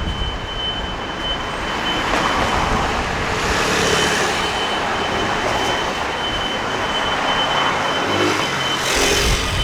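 City street traffic, with vehicles passing close by, the noise swelling twice, and a thin steady high-pitched tone running beneath.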